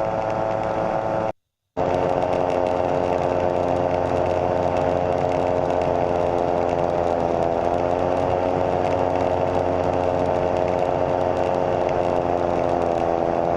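Rotax 912 flat-four aircraft engine of a Slipstream Genesis ultralight running steadily in flight, a loud even drone. The sound cuts out completely for about half a second a little over a second in. The pitch drops slightly about halfway.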